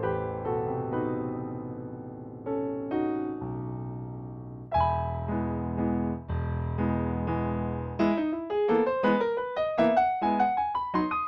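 Solo piano music: held low chords with slower notes above, then a run of quicker notes climbing upward in the last few seconds.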